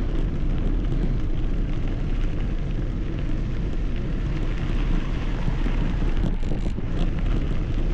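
Steady wind rush buffeting the microphone while riding a bicycle.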